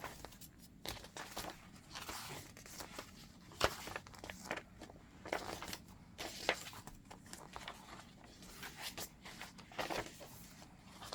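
Pages of a chunky handmade fabric-and-paper junk journal being turned and handled: soft, irregular rustling with light taps and clicks.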